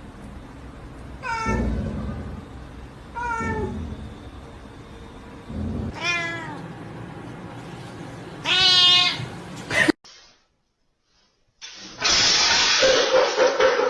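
A domestic cat meowing four times in drawn-out calls, the last one the loudest. After a sudden cut and a moment of silence, a loud, dense noise starts near the end.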